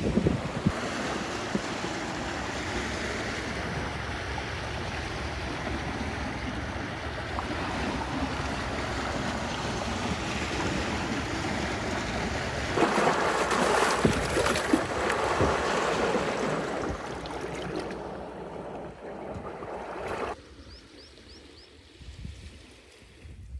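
Steady wind and water noise from the lakeshore, louder for a couple of seconds about halfway through, then dropping off suddenly near the end.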